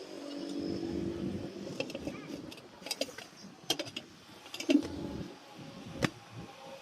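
Tools clinking and knocking: a handful of sharp metallic strikes, the loudest a little under five seconds in, over a low steady hum.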